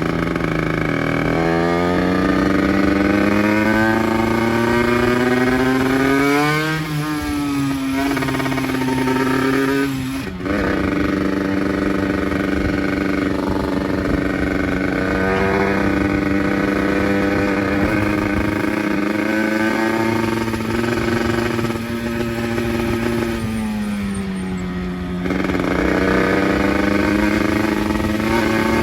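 50cc motorcycle engine accelerating hard and rising in pitch, with two sharp drops in pitch about seven and ten seconds in, then running at a steady cruise. Near the end it slows and eases off, then picks up again.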